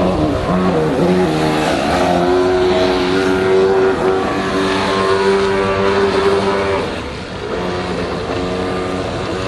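Motor of an NQD Spurt radio-controlled model speedboat running under throttle, a steady pitched hum that sounds much like a small combustion engine. The pitch shifts up and down in the first couple of seconds, holds steady, drops briefly about seven seconds in, then picks up again.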